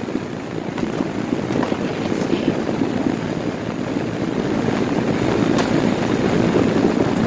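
Goodman air conditioner's condenser fan running, its discharge air rushing over the microphone as a loud, steady rumble.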